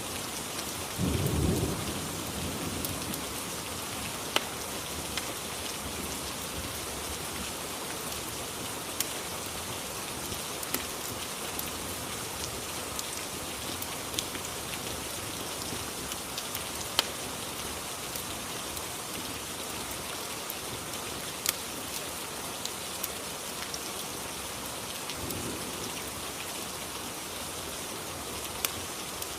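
Steady rain ambience with scattered sharp ticks, and a short low rumble of thunder about a second in, with a fainter rumble near the end.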